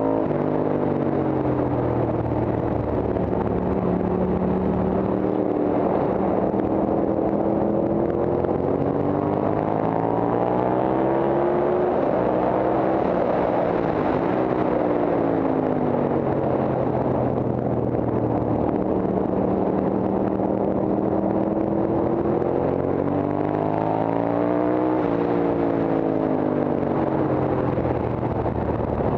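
Horvath Guzzi racing motorcycle's V-twin engine heard from an onboard camera, pulling hard on a track lap. The revs rise and fall several times as it accelerates, shifts and slows for corners, with a steadier stretch in the middle.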